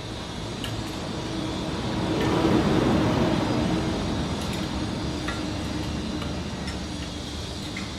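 A vehicle passing, its noise swelling to a peak about three seconds in and then slowly fading, with a few faint clicks.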